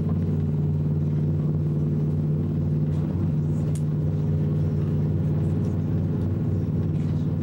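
ICE high-speed train running at steady speed: a constant low rumble with a steady hum.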